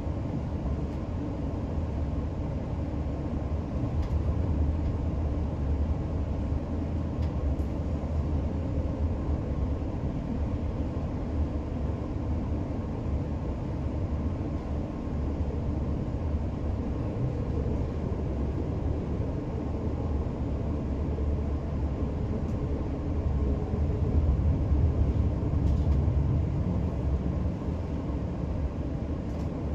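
Passenger train running on the rails, heard inside the carriage as a steady low rumble that swells a little near the end, with a few faint ticks.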